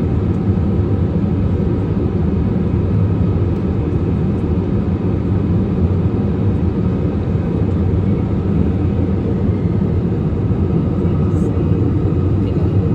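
Steady drone of an airliner cabin in flight: engine and airflow noise, low-pitched and even throughout.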